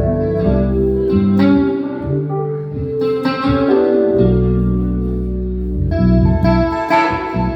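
Instrumental music led by plucked guitar, with held notes changing about every second over a bass line.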